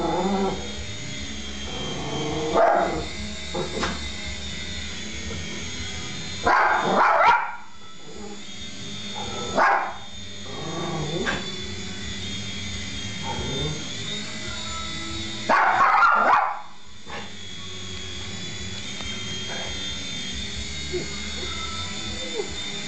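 Dog barking in repeated short bursts at a small radio-controlled helicopter, the loudest bursts about seven and sixteen seconds in. The helicopter's small electric motor and rotor make a steady high whine underneath.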